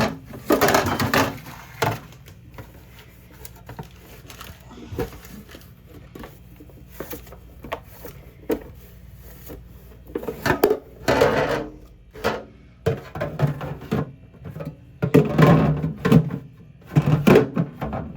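Objects being handled and set down: irregular knocks and thunks with scraping and rustling in between, in a small room.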